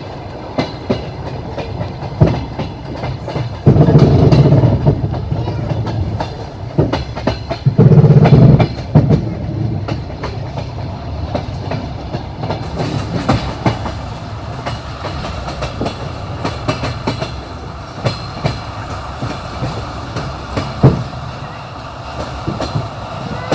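Passenger train running on rails: a steady rumble with wheels clicking over the rail joints. Twice, about four and eight seconds in, a louder, heavier clatter lasts about a second.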